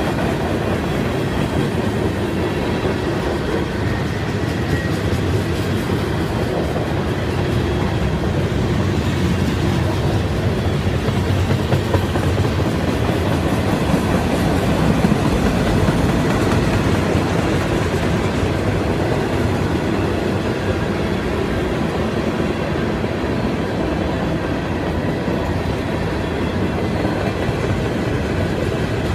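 Cars of a CSX mixed freight train rolling steadily past: steel wheels running on the rails.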